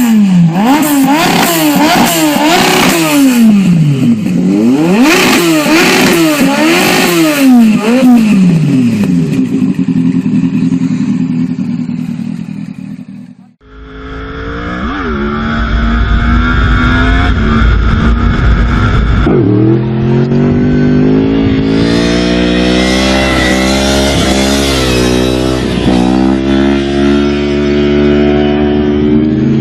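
A sport motorcycle engine revved hard in quick repeated blips, its pitch sweeping up and down many times for about eight seconds before it settles and dies away. After a cut, another engine runs steadily with a few short blips of the throttle.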